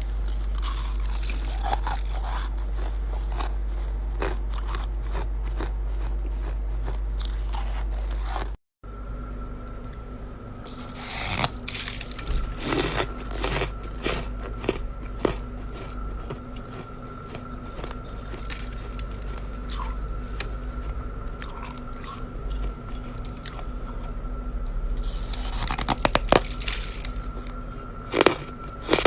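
Chest freezer ice or frost being bitten and chewed, with repeated crunches that come in clusters over a steady hum. The sound drops out briefly about a third of the way in, then the crunching resumes over a different steady tone.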